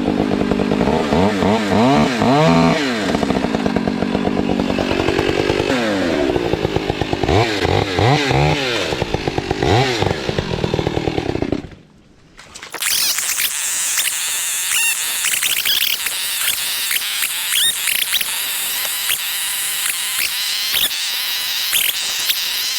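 Gasoline chainsaw running and being revved up and back down twice. After a sudden break about halfway through, a steady high hiss with many small clicks follows, typical of the saw cutting into wood.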